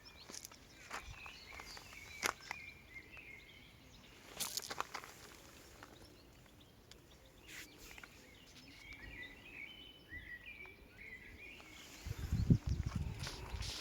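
Outdoor ambience: small birds chirping in short bursts, with scattered clicks and knocks. A louder low rumble comes about twelve seconds in.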